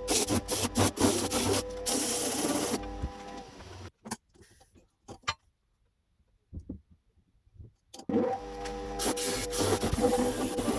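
Electric power tool running with a steady hum and a rough scratching noise over it, as in metal being worked. It cuts off suddenly after about four seconds, leaving a few faint ticks, and starts up again about four seconds later.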